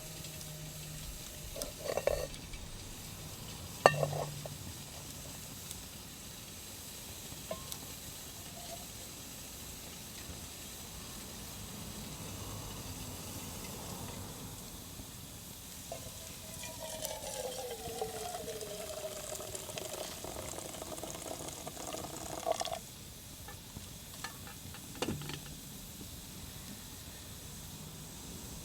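Hot water being poured from a drip kettle over ground coffee in a pour-over dripper: a pouring tone that slides down in pitch and then holds for several seconds in the second half before stopping abruptly. Two sharp knocks of utensils being handled come early, over a steady soft hiss.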